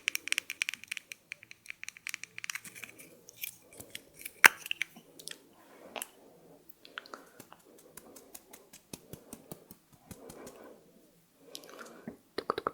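Close-miked ASMR trigger sounds: irregular sharp clicks and taps with soft rustling between them, and one louder click about four and a half seconds in.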